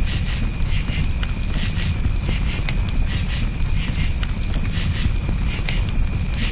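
Crickets chirping in quick repeated pulses over a campfire's steady low rumble, with scattered sharp crackles from the burning wood.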